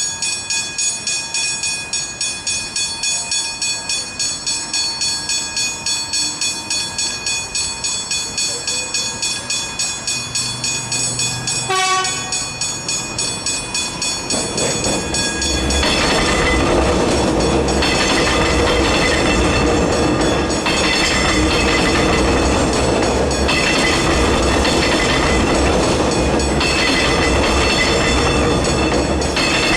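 Level crossing warning bells ringing with an even, rhythmic pulse, then a brief train horn blast about twelve seconds in. From about fifteen seconds a train rumbles loudly through the crossing, its wheels clattering over the rails, with the bells still going.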